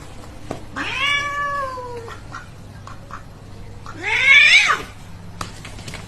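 A cat meowing twice: a long call about a second in that slowly falls in pitch, then a shorter, louder one that rises and falls. Faint small clicks sound in between.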